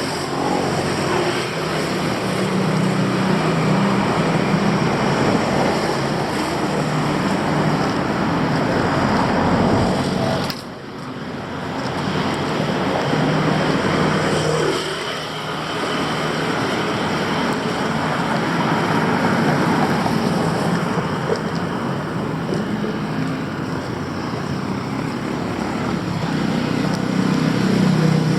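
Steady city traffic noise: running engines of passing vehicles, with a brief drop in level about ten seconds in.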